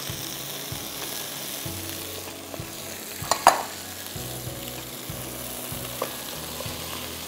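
Vegetables sautéing in oil in a pot, a steady sizzle as sliced onion is added and stirred in with a wooden spatula, with one brief knock about three and a half seconds in.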